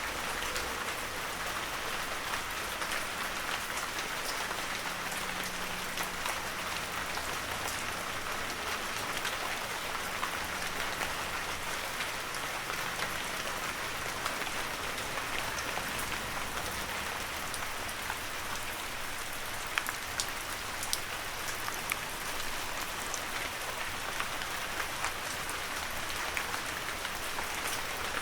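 Heavy rain falling steadily, a dense even hiss with many individual drops ticking sharply on leaves and surfaces.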